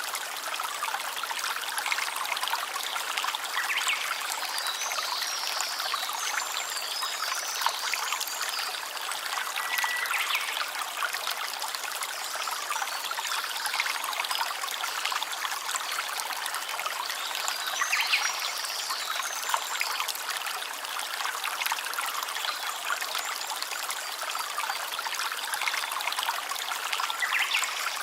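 A small stream trickling and babbling steadily over stones, with a few brief high chirps over the water now and then.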